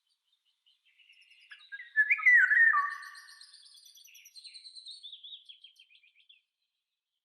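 Songbirds singing: a loud warbling phrase about two seconds in, with thin high chirps over it, then a quick trill of notes falling in pitch that stops about six seconds in.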